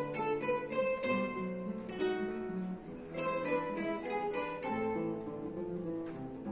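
An ensemble of acoustic guitars playing a piece together: plucked melody notes over chords, with some strummed chords.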